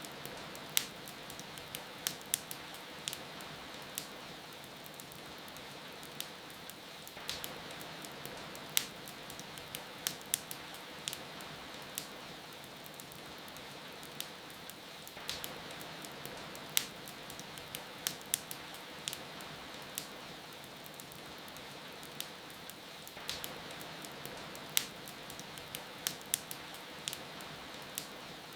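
Wood fire crackling in a fireplace, with sharp irregular pops a few times a second, over a steady hiss of falling rain.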